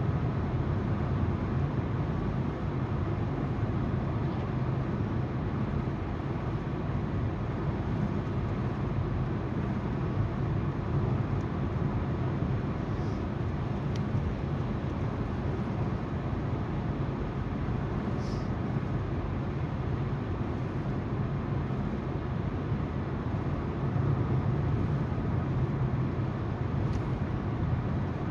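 Steady road noise of a car driving, heard from inside the car: tyres rolling on the road with the low hum of the engine.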